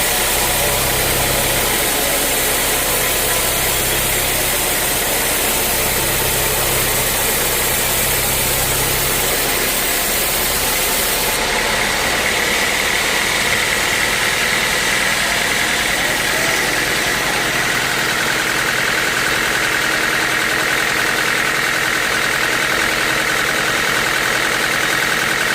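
A sawmill running continuously, its engine droning loudly. About ten seconds in the low rumble eases and a high whine sets in, dropping a little in pitch a few seconds later.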